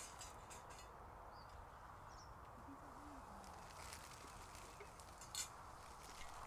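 Near silence: quiet riverside ambience with a faint bird chirp now and then and a few soft clicks, one sharper click about five seconds in.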